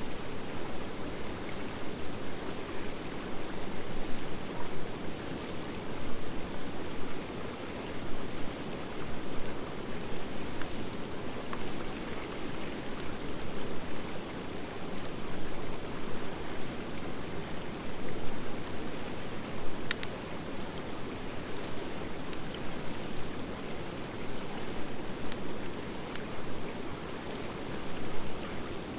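Wood fire of driftwood and hardwood logs burning: steady crackling and hissing with scattered sharp pops, the clearest about twenty seconds in.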